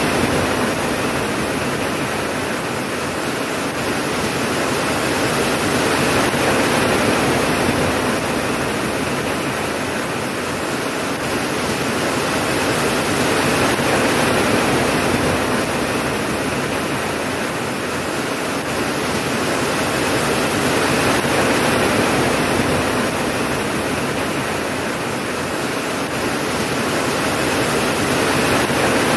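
Steady heavy rain, a dense even hiss that swells and eases gently about every seven seconds, with no thunder.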